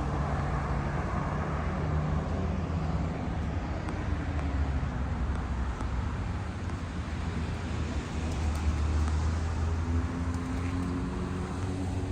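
Motor vehicle engine running amid road traffic noise: a steady low hum whose pitch drifts slightly.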